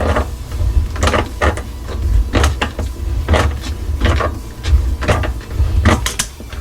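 Irregular clicks and scrapes of hand work with a tool on a dishwasher's brass water-line fitting, about ten in all, over a steady low rumble.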